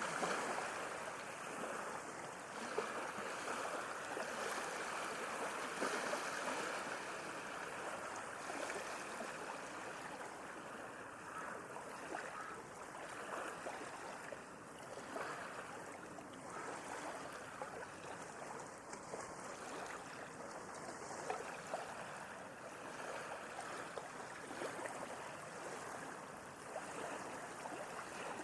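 Sea waves washing in: a continuous hiss of moving water, a little louder in the first several seconds and then easing, with faint small splashes throughout.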